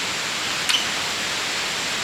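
Steady hiss of rushing water, with one short sharp click about two-thirds of a second in.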